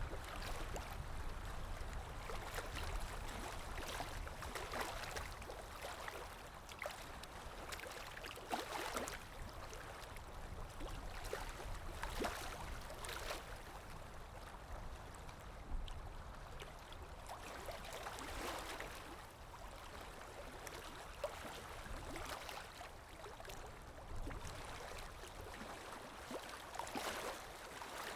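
Water splashing and gurgling in irregular surges, a nature sound-effect recording of moving water.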